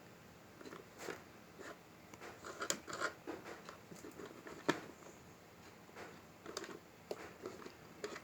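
Hands handling a toy: irregular light clicks and rustles, with one sharper click a little past halfway.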